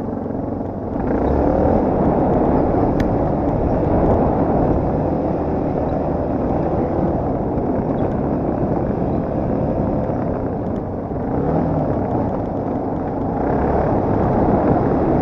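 Yamaha TT250R's single-cylinder four-stroke engine running under way on an enduro ride. It gets louder about a second in, eases off around eleven seconds, then picks up again.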